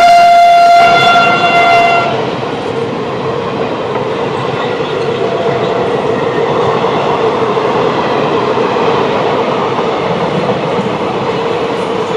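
Electric locomotive's horn holding one steady note that cuts off about two seconds in, followed by the steady rushing clatter of an express train's wheels passing over the rails.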